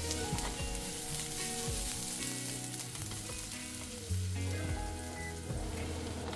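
Shallots, garlic and chilies frying in hot oil in a wok over high heat: a steady sizzle, with the spatula stirring them now and then.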